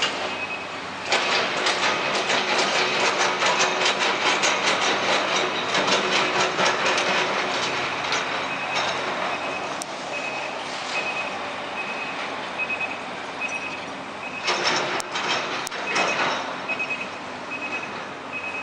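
Heavy truck's diesel engine running loud and throbbing as it pulls through a turn, easing off after about nine seconds, with another short loud rush near the end. A high electronic beep repeats steadily throughout, like a truck's turn or reversing warning alarm.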